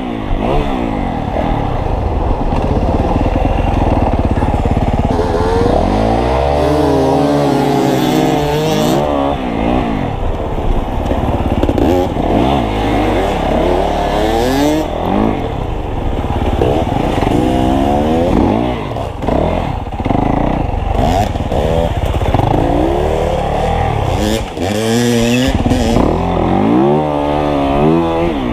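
Two dirt bikes racing head to head, their engines revving up hard and dropping off again and again as they accelerate out of tight turns and brake into the next.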